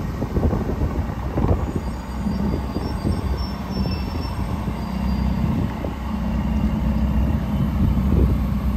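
Ferrari California T's twin-turbo V8 idling steadily, with a few low bumps mixed in.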